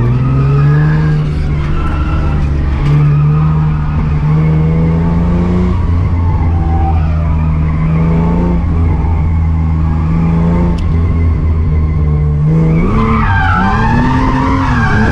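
Barra-swapped R31 Skyline drift car's Ford inline-six on track, its pitch climbing and dropping back several times as it pulls through gear changes. Near the end the revs swing up and down and the tyres squeal as the car slides.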